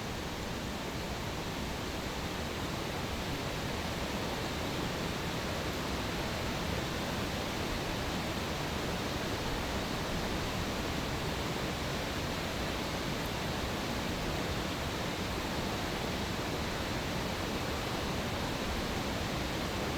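Steady, even rushing noise with no distinct pops or crackles.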